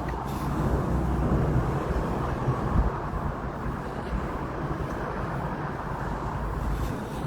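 Steady rumble of road traffic, with tyre and engine noise swelling slightly about a second in.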